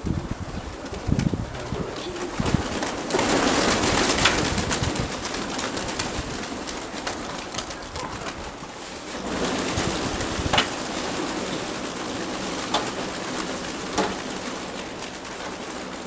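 Mykolaiv pigeons cooing, with gusts of wind rushing over the microphone, strongest from about three to nine seconds in, and a couple of sharp clicks near the end.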